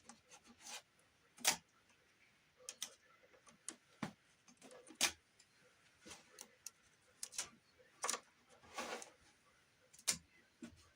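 Scattered light clicks and taps with a short rasp about nine seconds in, from tape being torn off the roll and pressed on to hold a freshly glued ceiling beam in place.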